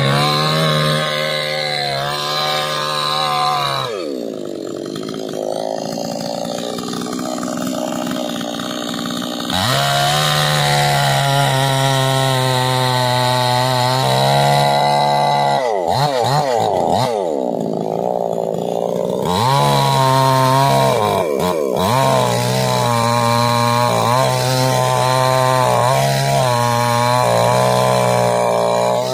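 Chainsaw running at high revs while cutting into a large tree. The engine pitch drops sharply about four seconds in and settles lower for several seconds before picking up again, then swoops up and down a few times in the second half as the throttle is let off and opened again.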